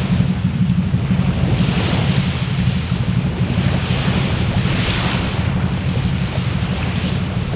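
Bonfire burning in an open fire pit, with wind rumbling heavily on the microphone and rising in gusts of hiss every couple of seconds. A thin, steady high whine runs through it throughout.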